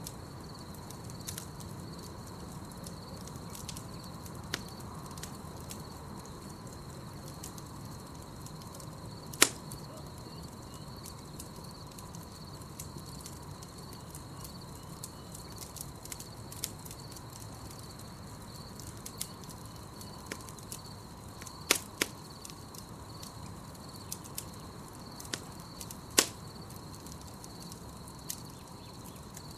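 Campfire crackling with scattered sharp pops, the loudest about a third of the way in and twice near the end, over a steady high chirring of night insects.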